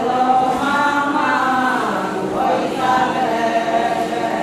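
A group of voices chanting together in long held notes, the chorus answering the lead singer in a call-and-response traditional chant.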